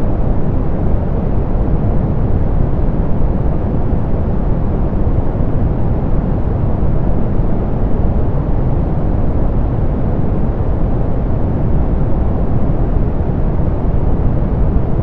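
Steady synthetic pink noise, softened so that it sits mostly in the low and middle range with little hiss on top, an even rushing sound that doesn't change.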